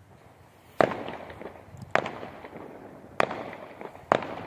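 Fireworks going off: four sharp bangs about a second apart, each followed by a short crackling tail.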